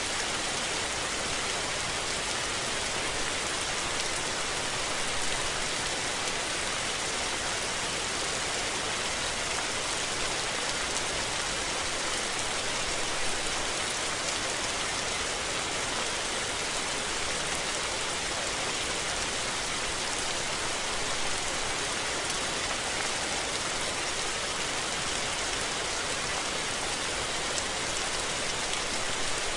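Steady rain falling: a dense, even hiss of many drops, with no rises or pauses.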